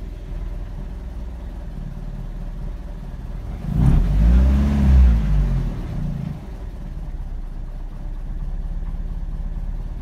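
2007 Toyota Yaris engine idling just after its first start in years, heard from inside the cabin. About four seconds in it is revved up once, the pitch rising and falling for a couple of seconds, before it settles back to a steady idle.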